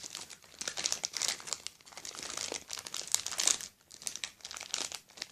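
Plastic fruit snack wrapper crinkling as it is handled and opened, in irregular bursts with short pauses.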